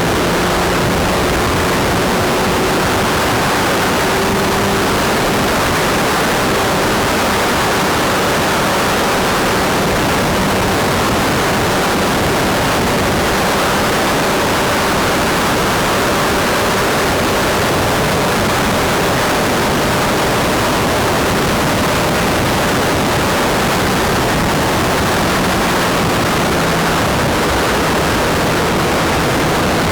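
Wind rushing over the microphone at riding speed, with a Kawasaki Z1000's inline-four engine running steadily underneath.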